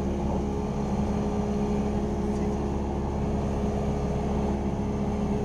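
Cessna 172R Skyhawk's four-cylinder Lycoming engine and propeller running steadily in cruise flight, a constant drone heard inside the cockpit.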